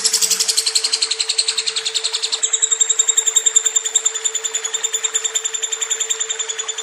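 Lovebird giving a long, unbroken chattering trill: a fast, even rattle of high notes that switches to a different pitch pattern about two and a half seconds in. A steady hum sits underneath.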